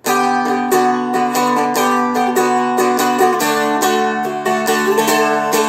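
Seagull Merlin M4, a small dulcimer-style fretted instrument, strummed in quick even strokes: a melody line over steadily ringing low drone strings. The playing starts sharply right at the beginning.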